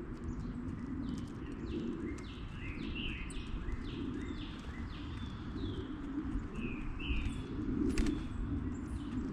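A songbird calling in a quick series of short downward-sweeping chirps, about two a second, over a steady low outdoor rumble, with a single sharp tap near the end.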